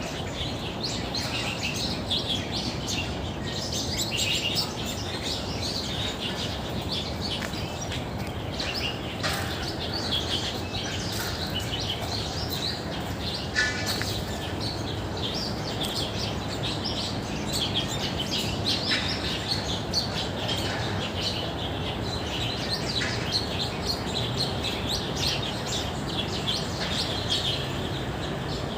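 Many small birds chirping and twittering together, a dense run of short, high calls that overlap throughout, over a steady low background noise.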